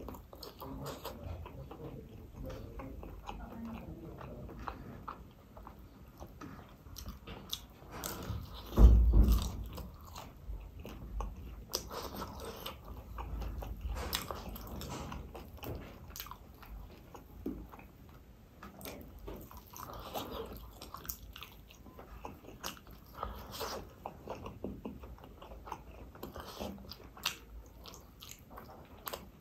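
Close-miked eating sounds: a person biting and chewing roast chicken and rice eaten by hand, with many short mouth clicks throughout. A single loud low thump comes about nine seconds in.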